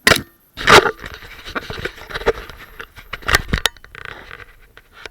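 Footsteps crunching in fresh snow close to the microphone: two loud crunches in the first second, then a run of softer crunches and sharp clicks that fades near the end.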